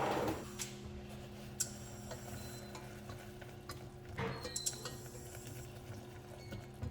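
Cooking sounds: a utensil stirring in a pan, with two swishing strokes, one at the start and one about four seconds in, and a few light clicks over a steady low hum.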